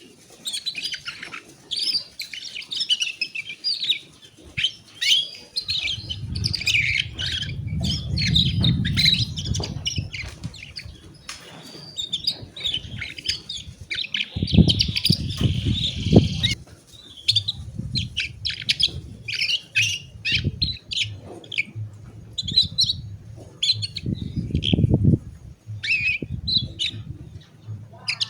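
Domestic canary singing a long, fast song of chirps, trills and short whistles. A low rumble comes and goes beneath it.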